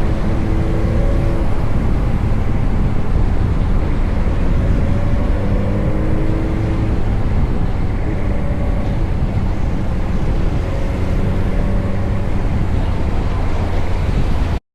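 Riding on a motorcycle in traffic: a steady rush of wind and engine drone, with a few brief pitched engine or vehicle tones rising and fading. It cuts off suddenly near the end.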